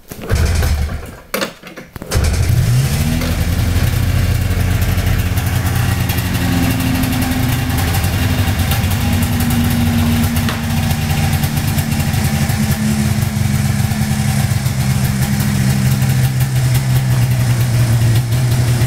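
Motorcycle engine cold-starting: a few short bursts of cranking, then it catches about two seconds in and runs at a raised idle. The idle settles slightly lower after a few seconds and stays steady.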